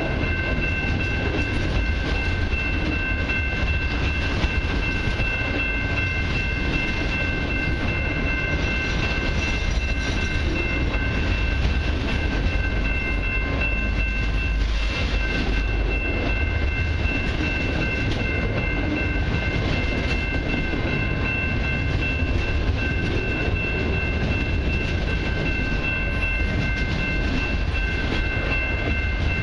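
Autorack freight cars of a long freight train rolling past: a steady rumble of wheels on rail, with constant high-pitched ringing tones over it.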